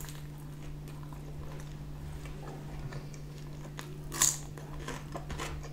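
Close-up mouth sounds of a person chewing a bite of pizza, with faint soft clicks. About four seconds in there is a short, sharp wet smack as fingers are licked. A steady low hum runs underneath.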